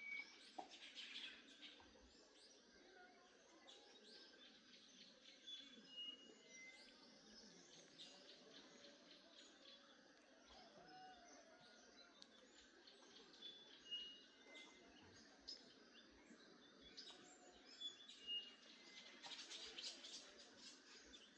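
Faint birdsong: scattered short chirps and tweets from several birds over a low, steady background hiss.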